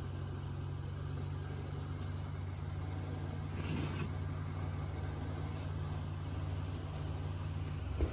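A steady low mechanical hum, like an idling engine or a running motor, with a short knock near the end.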